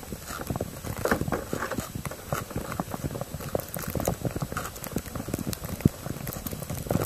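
Footsteps crunching through fresh snow in an uneven walking rhythm, over a steady low rumble of wind on the microphone.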